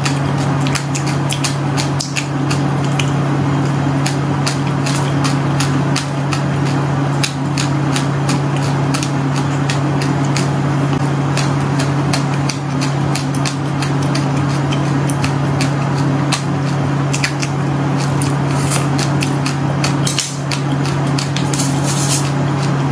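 Close-miked crunching of crispy candy being bitten and chewed: a dense run of sharp crackles and snaps, thickest near the end, over a steady low hum.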